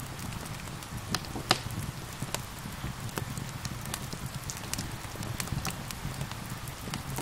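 Steady rain falling, mixed with a crackling wood fire that gives off frequent sharp pops, the loudest about a second and a half in.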